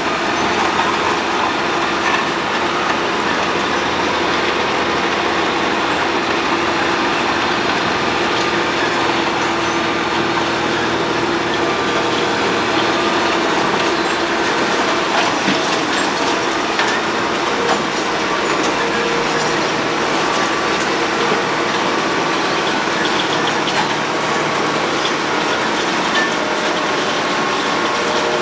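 Road planer (cold milling machine) at work planing the road surface: a steady, loud mechanical noise with a few held humming tones and no pauses.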